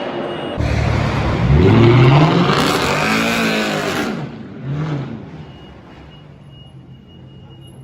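Car engine revving hard: the pitch climbs steeply, rises and falls again, and a short blip follows about five seconds in. The sound then drops away to a quieter background.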